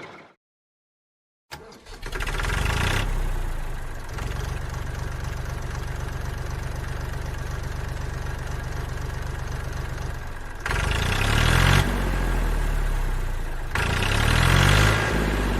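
A small engine on a DIY mini tractor starts up after a brief silence and runs with a fast, steady pulsing beat. It rises in pitch and gets louder twice near the end, as if revved or put under load.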